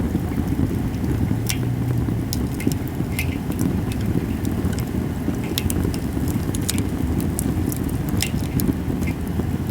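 Japanese cedar wood fire crackling, with sharp irregular pops over a steady low rumble.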